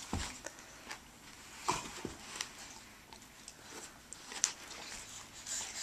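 Scattered soft thumps and scuffles of a puppy at play, with sharper knocks about a second and a half in and again near four and a half seconds.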